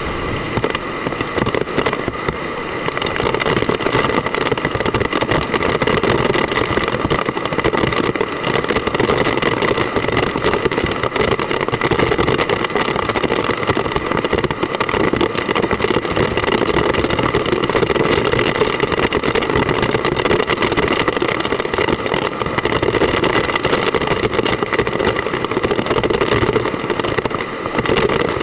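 Heavy typhoon rain pouring steadily, a dense, even crackling hiss that does not let up.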